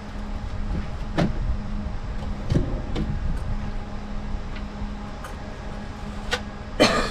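Boat motor humming steadily over a low rumble, with a few sharp knocks and a louder clatter near the end.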